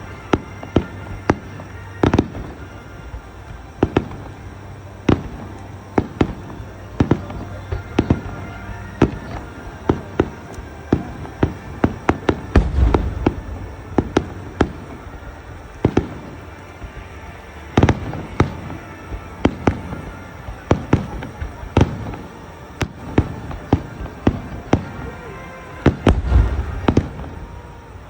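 Aerial fireworks going off in rapid succession: dozens of sharp bangs, with denser, heavier volleys about halfway through and near the end.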